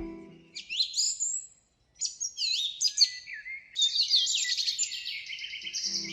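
Songbirds singing: a busy run of quick chirps and whistled notes sweeping down in pitch, with a brief total dropout about two seconds in. Soft background music fades out at the start and comes back near the end.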